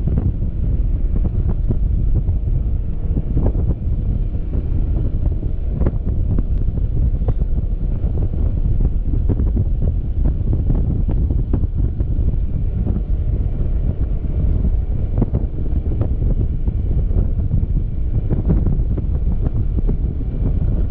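Steady, heavy wind buffeting on the camera microphone of a Yamaha XMAX scooter being ridden, with a faint steady tone underneath.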